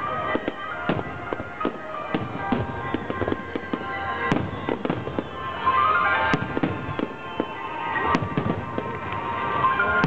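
Aerial fireworks bursting in quick succession, with booms and several sharper cracks, over music playing alongside the show.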